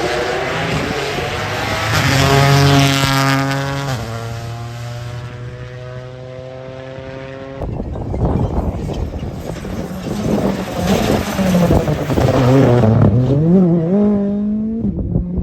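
Rally car engines at speed on a stage: one car's engine holds a high note, its pitch drops about four seconds in, and it stops short near the middle. A second engine then revs with its pitch rising and falling repeatedly.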